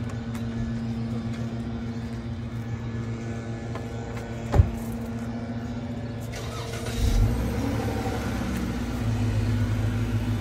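Parked Dodge Charger's engine idling steadily, with a sharp knock about halfway through and a short louder rumble a couple of seconds later.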